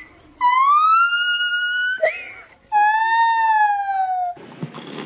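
Gibbon calling: two long, clear whooping notes, the first rising in pitch and the second holding and then falling slightly, with a short high squeal between them. About four seconds in the calls stop and low room noise follows.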